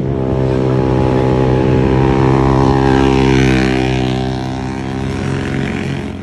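Naked sport bike's engine running at a steady pitch, growing louder to a peak about halfway through, then easing off.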